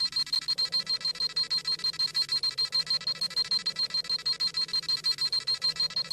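Dragon Ball Z scouter sound effect: a rapid, high-pitched electronic beeping, about seven pulses a second, held steady.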